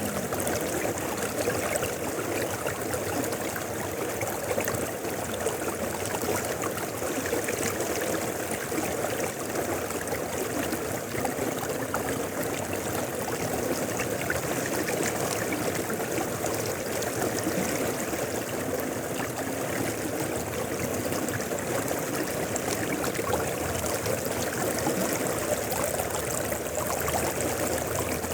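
Mountain river flowing steadily over rocks: a constant rushing and babbling of water.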